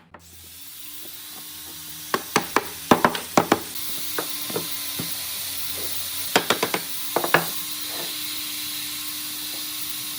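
A steady hiss with a faint hum that swells in over the first few seconds, broken by two short clusters of light knocks on wood.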